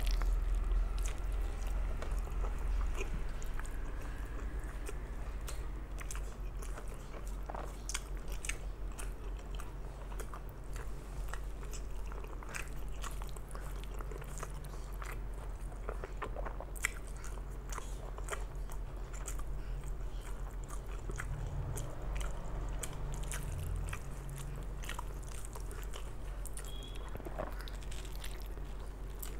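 Close-up chewing and mouth sounds of a person eating rice and mutton curry by hand, with many short wet clicks and smacks. A low steady hum sits underneath.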